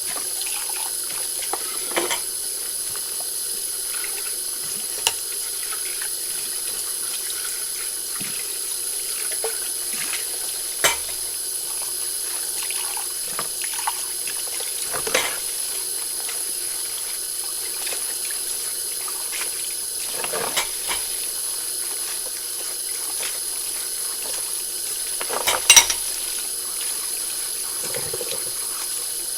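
Tap water running steadily into a kitchen sink while dishes are washed by hand, with occasional short clinks of dishes and cutlery, the loudest near the end.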